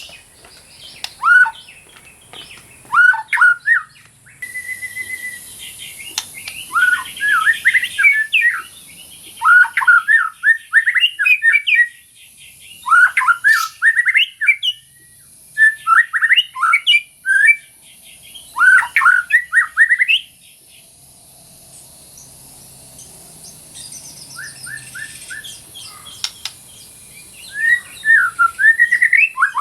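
White-rumped shama (murai batu) singing: bursts of quick, varied whistled phrases, with a quieter lull about two-thirds of the way through before the song picks up again.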